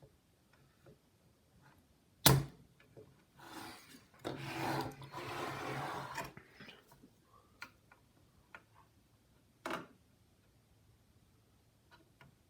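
Workbench tool sounds while soldering: a sharp click a couple of seconds in, then a rushing hiss of about two seconds, followed by a few small clicks and a knock.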